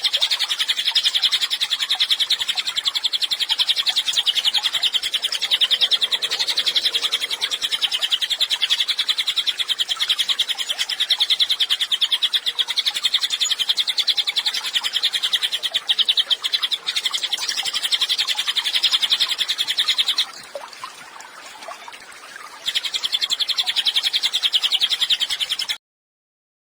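A cililin bird singing its song as one long, very rapid, high-pitched trill. The trill breaks off about 20 seconds in, starts again a few seconds later, and stops abruptly just before the end.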